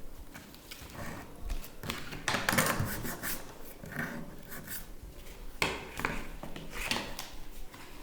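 Irregular rubbing and scraping of cardboard and wood being handled and worked by hand, with a few sharper clicks and knocks, the loudest stretch of scraping a little over two seconds in.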